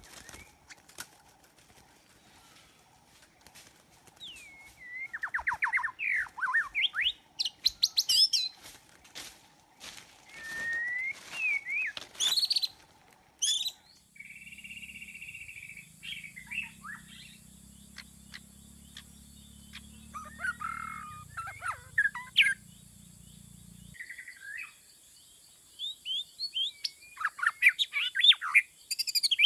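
Birds chirping, with many short notes sweeping up and down in pitch. About halfway through, the background changes suddenly, and a low steady hum runs under the chirps for about ten seconds.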